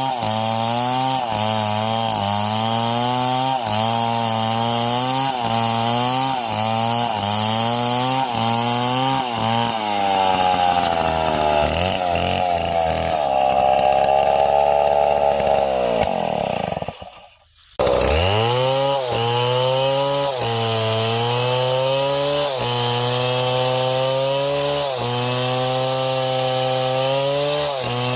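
Chainsaw cutting wood, its engine pitch dipping and recovering about once a second as it loads in the cut. Midway it climbs to a steady high rev. After a brief sudden dropout, the same loaded cutting resumes.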